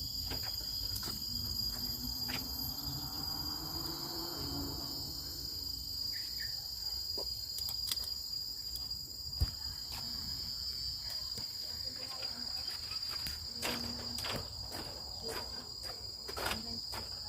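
Forest insects droning steadily at a high pitch, with scattered short clicks and knocks.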